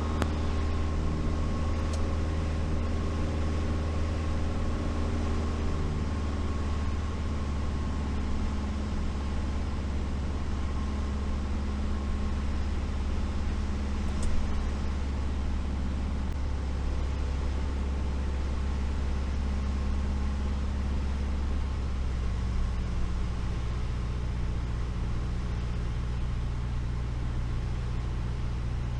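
Light aircraft's piston engine and propeller droning steadily in the cockpit during the approach and touch-and-go circuit. The engine note changes about three quarters of the way through, with a brief click about halfway.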